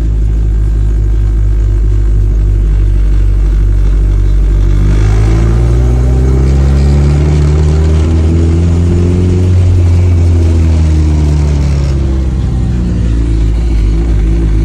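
Turbocharged Honda K-series four-cylinder engine in a Toyota MR2 running under way: a steady drone, then the pitch climbs steadily from about five seconds in to a peak near ten seconds as the car accelerates, and drops back down after.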